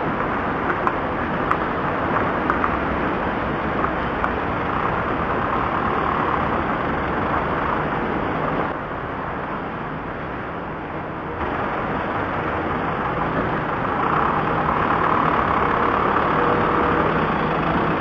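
Steady engine and road noise of a car driving, as heard through a dashcam's microphone, with a slightly quieter stretch in the middle.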